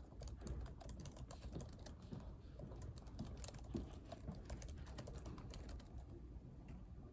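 Typing on a computer keyboard: a quick, uneven run of keystrokes that stops shortly before the end.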